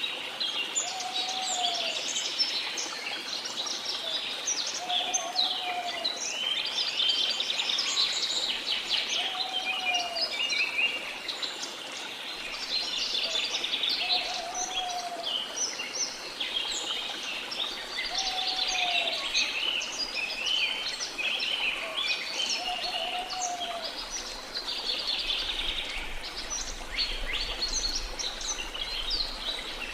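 A dense chorus of many birds chirping and trilling without pause. Through it, a lower, short arched call repeats about every four seconds, six times.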